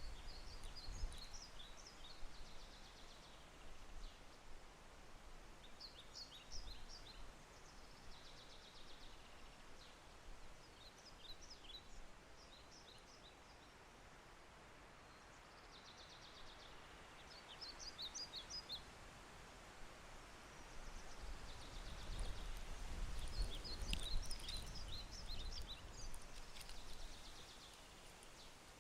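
A songbird singing short phrases of rapid chirps every few seconds over a steady hiss of gentle rain falling in forest. A low rumble swells near the end.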